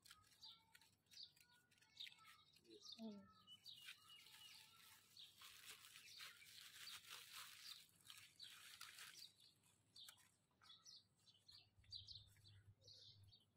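Faint birds chirping now and then, with a stretch of plastic carry bags rustling in the middle.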